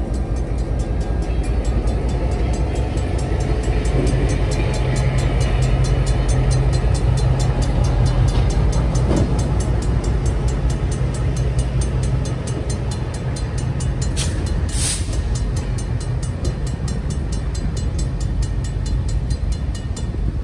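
Diesel freight locomotive running slowly past at close range, pulling a caboose: a low engine rumble and rolling wheels on the rails, easing as the train moves off. A fast, regular ticking, about four a second, sounds over it, with a short high-pitched squeal near the end.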